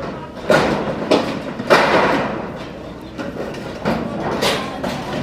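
Building-site knocks and thuds as roofing materials are handled and hoisted: about five sharp strikes, with a longer rattling clatter about two seconds in.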